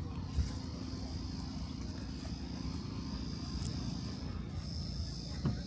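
Insects trilling steadily in one high, even note over a constant low rumble, with a short thump near the end.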